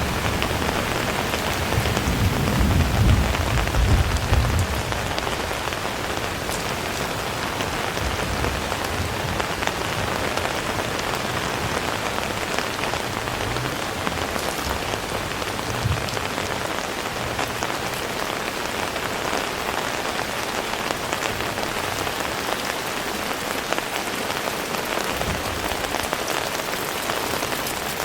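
Heavy rain falling steadily, with a low rumble in the first few seconds.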